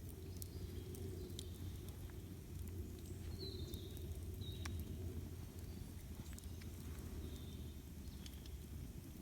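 Campfire burning: scattered sharp crackles and pops over a steady low rumble, with a few short high chirps.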